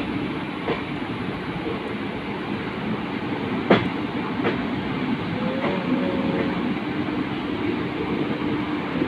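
Passenger train running, heard from its open doorway: a steady rumble of wheels on the rails, with a few clicks and one sharp clack a little under four seconds in.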